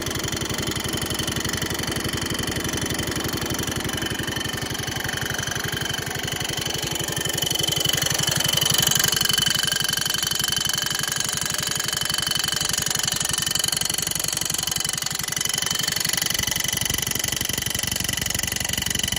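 Garden tractor engine running steadily, growing louder for a couple of seconds about eight seconds in, with something rubbing at the rear: a bad bearing that needs replacing.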